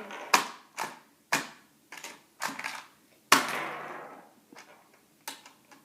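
Hard plastic toy pieces clicking and knocking together as they are handled, about six sharp knocks, with one louder clack a little past three seconds in followed by about a second of scraping rattle.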